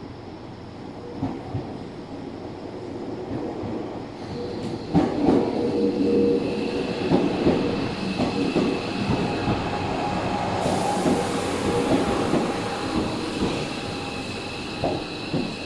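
Electric train running alongside the station platform, growing louder as it comes in, with wheels clattering over rail joints from about five seconds in and a high steady wheel squeal from about seven seconds in.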